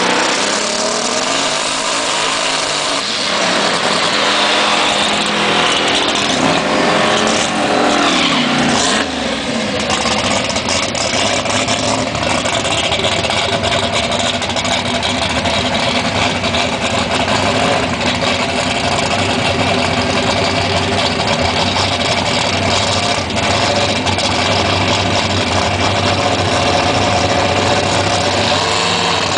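Drag race truck's engine revving, its pitch rising and falling for several seconds, then settling into a steady idle.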